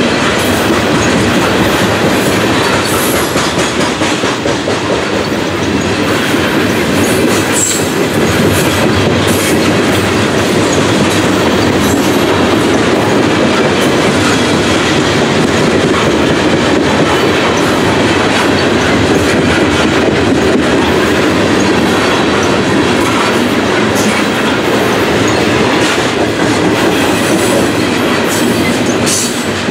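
Loaded-looking CSX coal hopper cars rolling past close by: a steady, loud noise of steel wheels running on rail, with repeated clicks as the wheels cross rail joints.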